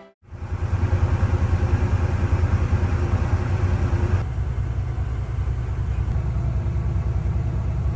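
Generator running steadily with the camper's rooftop air conditioner on, a low hum with a fast regular throb. It drops a little in level about four seconds in.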